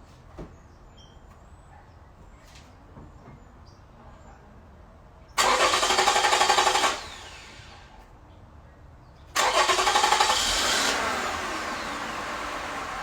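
A car engine cranked by its starter in a burst of about a second and a half, which then stops. A few seconds later it is cranked again, catches, and settles into a steady idle.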